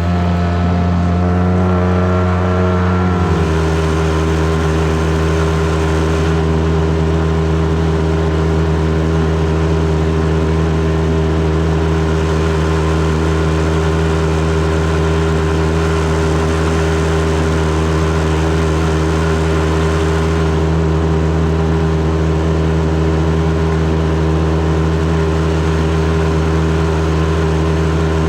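Boat's outboard motor running steadily under way, its pitch shifting slightly about three seconds in and then holding steady.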